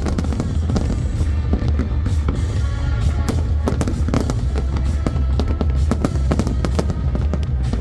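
Fireworks bursting and crackling in quick, irregular succession over a continuous low rumble from the barrage.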